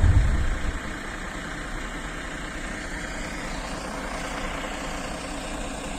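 A loud noise dies away in the first second, leaving a vehicle engine idling steadily.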